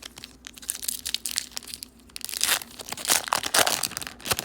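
Wrapper of a 2014 Topps football card pack being torn open and crinkled, with crackling that grows louder and busier about halfway through.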